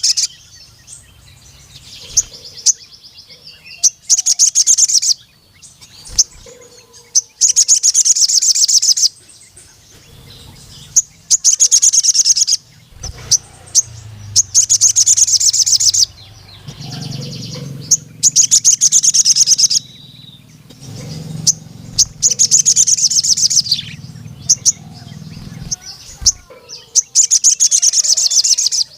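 Male sogon sunbird singing: loud bursts of very rapid, high trilling, each about one to two seconds long, repeated every three to four seconds, with soft chirps between them.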